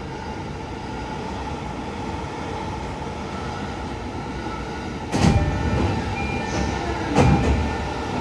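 Interior running noise of a JR East E531 series commuter train as it pulls slowly along the station platform. Two loud short bursts come about five and seven seconds in.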